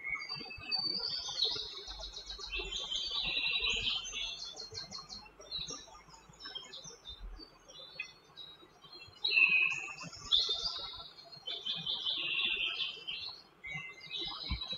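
A songbird singing in two long, fast phrases of high chirps and trills, each about four seconds, with scattered quieter notes between them.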